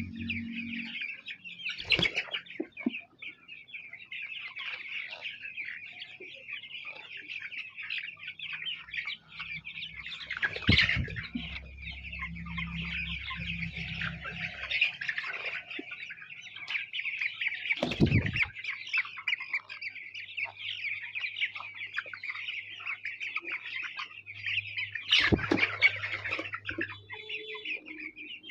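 A flock of chicks peeping continuously in a dense, high chorus, broken four times by a brief, louder sudden noise.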